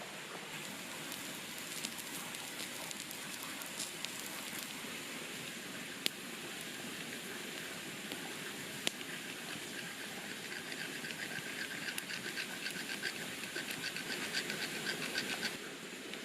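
Wood campfire crackling with sharp pops over a steady hiss. About ten seconds in, a fast patter joins it and stops suddenly near the end.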